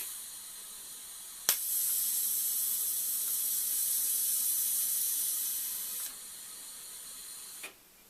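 TIG welding arc on stainless steel. A sharp click, then a quiet gas hiss; about a second and a half in the arc strikes with a crack and hisses steadily for about four seconds before tapering off. A quieter hiss of shielding gas follows and ends with a click near the end.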